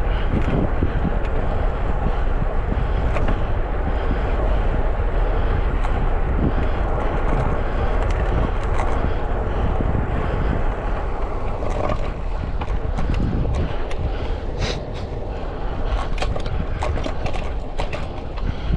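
Wind buffeting an action camera's microphone on a moving bicycle, a steady low rumble with road noise. In the second half, scattered sharp clicks and ticks come through as the rumble eases slightly.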